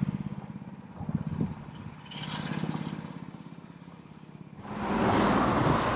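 A vehicle engine running slowly close by, then a louder rush of the vehicle passing from about four and a half seconds in.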